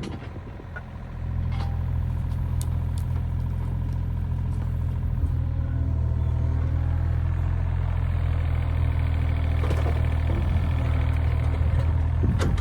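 Mini excavator's diesel engine running steadily under work, dipping in level for about the first second, then holding steady, with a few sharp knocks near the end.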